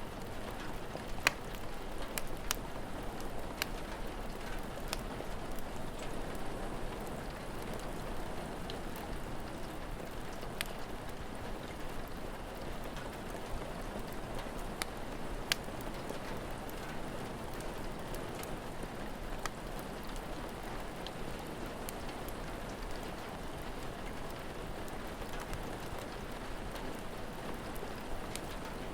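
Steady rain falling, with scattered sharp pops from a crackling fire, most of them in the first half.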